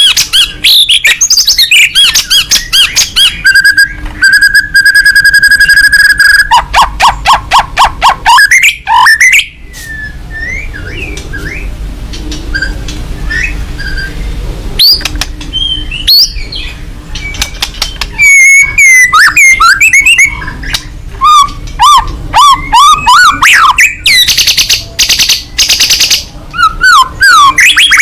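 White-rumped shama (murai batu) singing loudly and insistently: a varied song of whistled glides, rapid stuttering notes and a held trill. The song eases off for a few seconds in the middle, then returns loud and fast.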